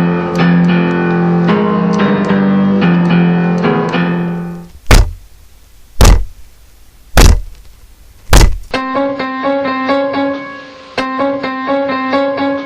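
Piano music breaks off for four loud, slow knocks on a door, a little over a second apart, then the piano music picks up again.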